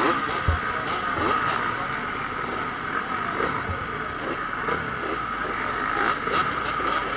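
Several motocross motorcycles racing, their engines revving up and down at the same time with overlapping rising and falling pitch.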